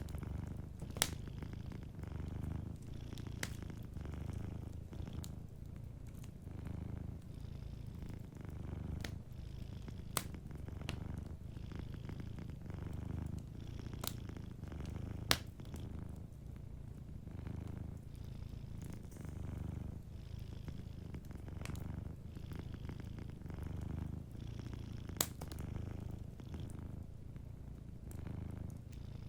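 A cat purring steadily, its low rumble swelling and easing in slow waves, over the scattered pops and crackles of a fireplace fire; the sharpest pops come about a second in, about halfway through and near the end.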